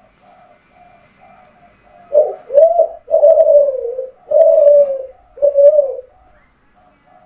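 Kelantan-strain spotted dove (derkuku kelantan) cooing. About two seconds in comes a loud phrase of two short notes and then three long coos, each falling slightly in pitch. Softer, quick repeated coos come before and after it.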